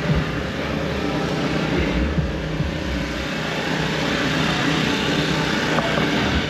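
Motor vehicle engines running: a steady, loud noise with a strong low rumble and no distinct revs or pauses.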